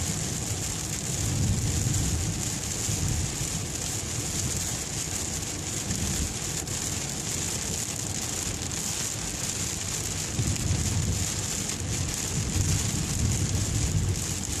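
Steady hiss of rain falling on a car, heard from inside the cabin, over a low rumble that swells at about a second in and again near the end.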